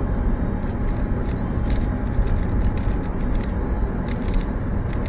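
Steady road and engine noise of a moving car, with light scattered clicks.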